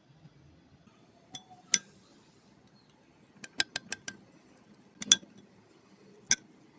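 Kitchenware clinking: about ten separate sharp clinks, a quick run of four or five about three and a half seconds in, the loudest about five seconds in.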